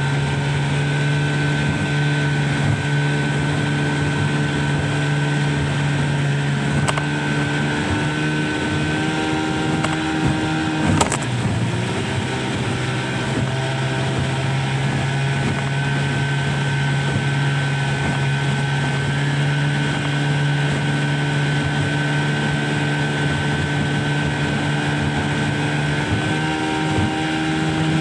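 Motorboat engine running at a steady speed. About eleven seconds in there is a single sharp knock, and the engine note dips for a moment before it settles back.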